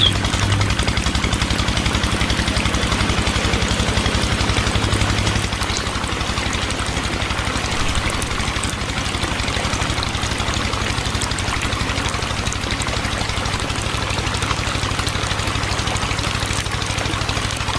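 Small electric toy motor, as used in a homemade mini tractor model, running steadily with a fast, even buzz. It gets a little quieter about five seconds in.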